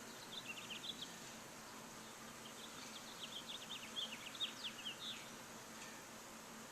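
Small bird chirping in two quick runs of short high notes, over a steady background hiss.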